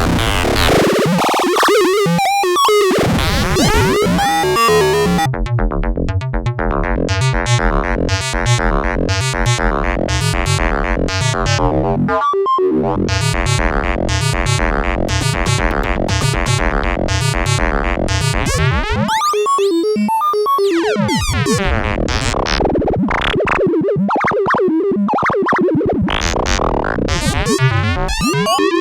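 Semi-modular analog drum synthesizer playing a fast, looping sequenced pattern of pitched percussive hits. The tone shifts as the filter and envelope settings are changed: the bright top end cuts off about five seconds in, the pattern drops out briefly around twelve seconds, and the sound changes again near twenty seconds.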